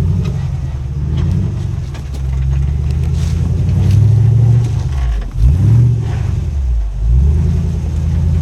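Off-road rig's engine revving up and down in repeated surges under load, with a brief drop and sharp rise in pitch about five seconds in.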